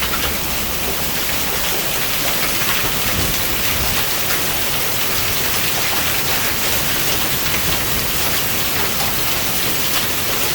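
Heavy rain mixed with hail pouring down in a storm: a loud, steady downpour with many small sharp hits throughout.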